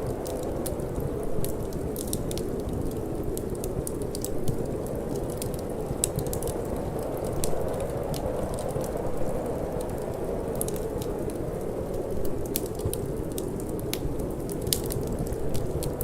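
Wood fire crackling, with frequent small sharp pops at irregular intervals, over a steady low rush of wind.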